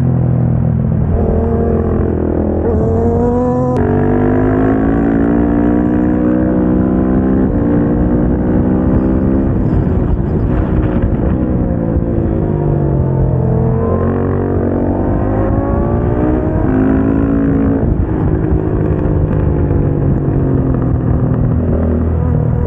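KTM 690 SMC-R single-cylinder engine at full throttle around a track: the pitch climbs and drops off sharply at each gear change, then falls away slowly under braking before rising again out of the corner.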